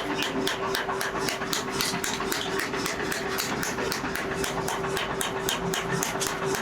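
Rapid, even hammering on leaf-spring steel during forging, about five blows a second, over a steady machine hum.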